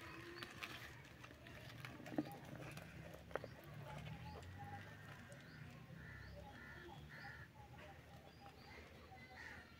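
Faint birdsong: scattered short chirps, with one bird calling three times in quick succession about six seconds in. Two sharp clicks about two and three seconds in are the loudest sounds.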